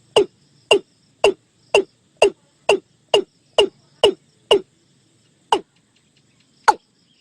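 Watercock calling: a series of about a dozen short, sharp notes, each dropping quickly in pitch, about two a second, slowing toward the end.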